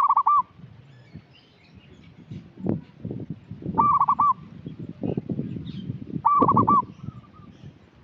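Zebra dove (perkutut) calling: three short bursts of quick, repeated notes, each about half a second long, a few seconds apart.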